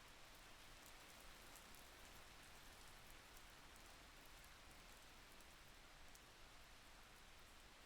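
Faint steady rain: an even soft hiss with scattered light drop ticks.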